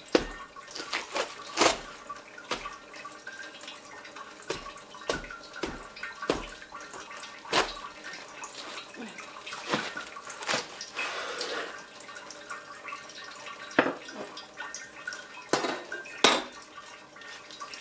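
Knife cutting through a head of Savoy cabbage: a series of irregular sharp cracks and crunches as the blade goes through the crisp leaves.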